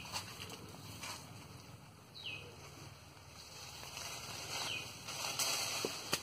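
A bird repeating a short call that slides down in pitch, about every two and a half seconds, over a rustle of leaves as a long bamboo pole works through guava branches, with a couple of sharp knocks near the end.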